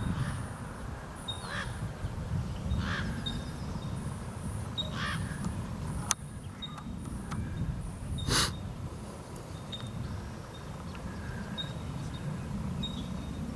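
Crows cawing: a few single harsh caws spaced a second or more apart, the loudest about eight seconds in. Short high chirps of a small bird repeat in the background.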